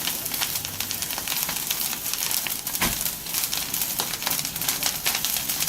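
Bonfire of dry fallen pine branchlets crackling steadily, with many quick sharp pops and one heavier pop about three seconds in.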